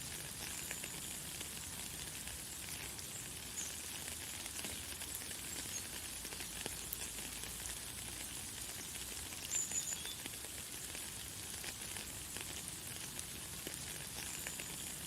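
Light, fine rain falling steadily: an even, high hiss made of a dense patter of small drops. A few brief, high bird chirps come through it, the loudest about nine and a half seconds in.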